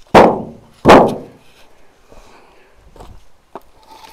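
Split firewood logs dropped onto a woodpile: two loud wooden knocks in the first second, then a few faint knocks about three seconds in.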